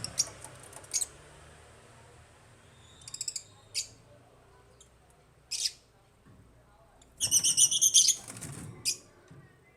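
African lovebirds chirping: short, sharp, high-pitched calls at irregular intervals, with a loud rapid series of chirps about seven seconds in.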